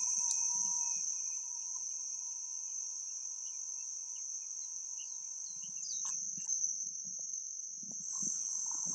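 Insects chirring in a steady, high-pitched drone, with a fainter steady lower tone underneath for the first six seconds or so and a few short chirps over it.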